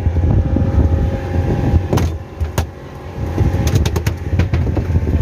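Boat motor running with a steady low drone, with a few sharp clicks or knocks about two seconds in and again around four seconds.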